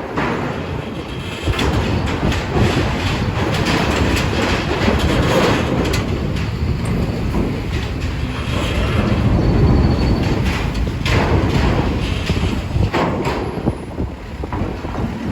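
Loud, steady rumble with irregular metal clanks and knocks: vehicles rolling onto a ferry over its steel loading ramp.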